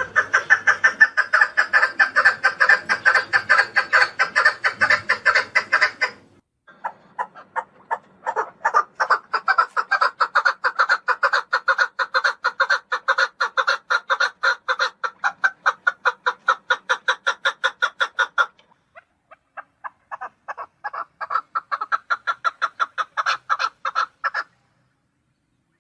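Chukar partridge giving its rapid, rhythmic chuck-chuck rally call, about five notes a second, in three long runs with short breaks between.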